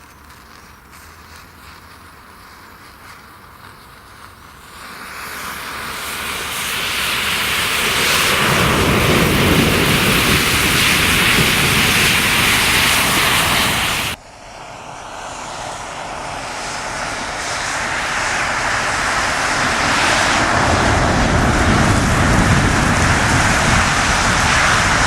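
A mass of matches flaring and burning together: a faint crackle that swells about five seconds in into a loud, steady fire roar. The roar cuts off abruptly about halfway, then builds up again into a loud roar.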